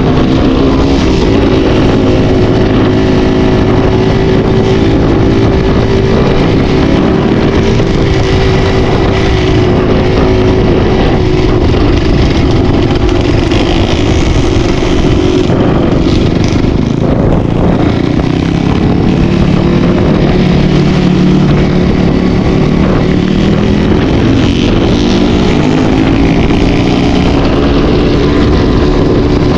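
Enduro dirt-bike engine running continuously under riding load, its revs rising and falling, with the engine note dropping for a few seconds in the middle before climbing again.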